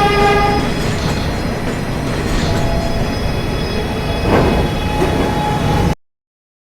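New York City subway train running through the station: a pitched horn blast that ends just under a second in, then the rumble of the wheels on the track with brief squeals. The sound cuts off suddenly near the end.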